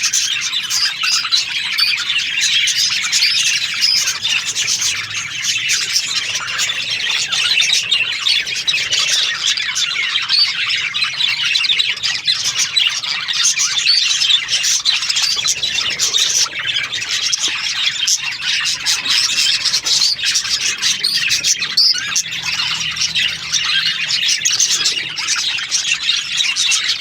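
A flock of budgerigars chattering and chirping without pause, a dense high-pitched warble of many birds calling at once.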